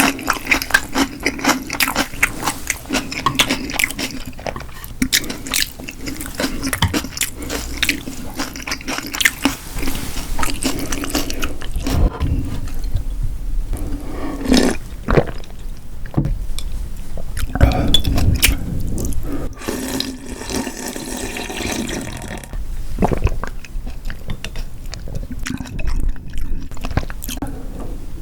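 Close-miked wet eating sounds of cold buckwheat noodles in broth: quick chewing clicks through the first half, then longer slurping and gulping stretches in the second half.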